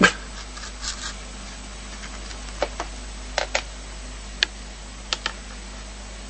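A series of short, sharp taps, several in quick pairs, over a steady background hiss.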